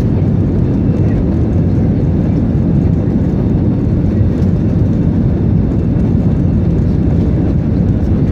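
Airplane taking off: a steady, loud low rumble of engines at takeoff power.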